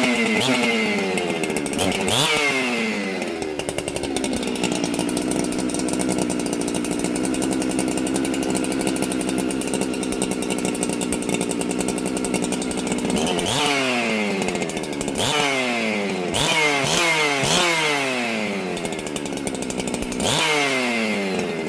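Ported Husqvarna 365 Special two-stroke chainsaw with a ported muffler, running after sitting about a year. It comes down from high revs to a steady idle, is blipped once about two seconds in, and near the end is revved up and let down several times in quick succession.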